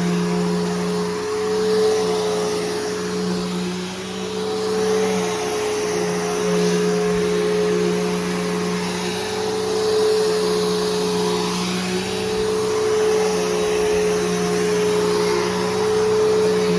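Bissell Powerforce Helix Turbo upright vacuum cleaner running, refurbished with a new belt and brushroll. Its motor gives a steady hum, and the rush of air and brushroll rises and falls every couple of seconds as it is pushed back and forth.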